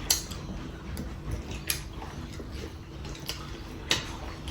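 A person eating chicken curry with rice close to the microphone: soft chewing with a few sharp mouth clicks spread over the seconds.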